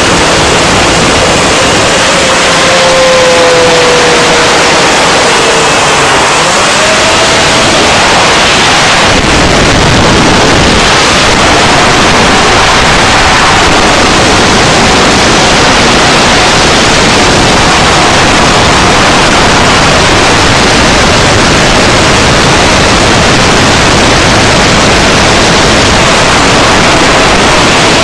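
Six-inch FPV quadcopter's motors and propellers under loud rushing wind noise, heard from the camera on the craft itself, with a faint whine that slides up and down in pitch.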